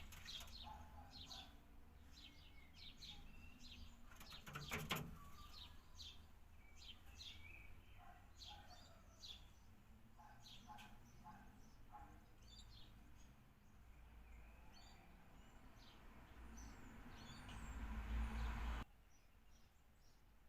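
Small birds chirping, many short high calls in quick succession, with a brief loud rustle about five seconds in. A low rumble builds near the end and cuts off suddenly.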